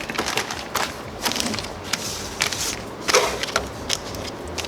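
Scattered clicks, clinks and rustles of small parts and fittings being handled while plumbing an engine.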